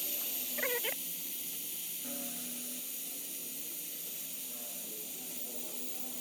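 A steady hiss, with soft background music underneath.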